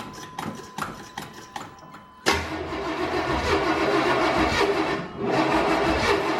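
Pickup truck's gasoline engine, with its distributor just reinstalled, starting: a few light clicks, then it fires suddenly about two seconds in and keeps running, dipping briefly about five seconds in. The ignition timing is off after the distributor went back in a tooth or two out of place.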